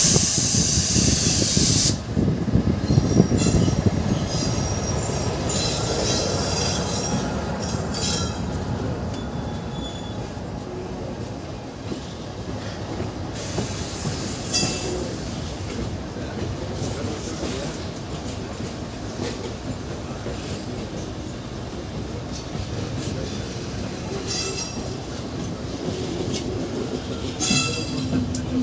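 Passenger train running slowly, its steel wheels squealing in short high-pitched bursts over a steady rumble. It opens with a loud hissing rush for about the first two seconds.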